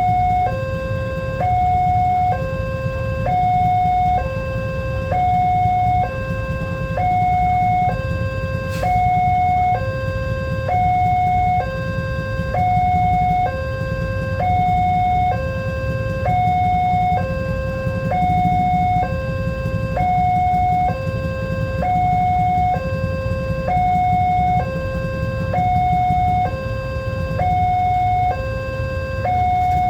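Railroad level-crossing warning alarm sounding a two-tone electronic chime, a higher note then a lower one, repeating about once every two seconds over a steady low rumble.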